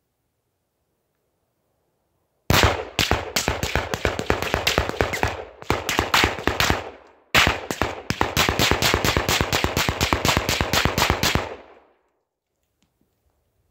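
AR-15 rifle firing 5.56 mm rounds in rapid fire: two long strings of shots at about four to five a second, with a short break about seven seconds in.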